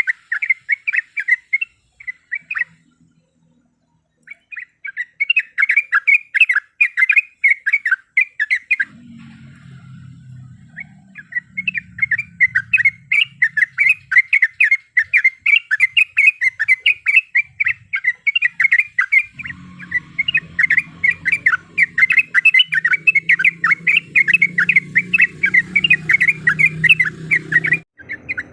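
Yellow-vented bulbul (trucuk) singing long rapid runs of sharp chattering notes, several a second, broken by two short pauses, with a low hum underneath in the second half.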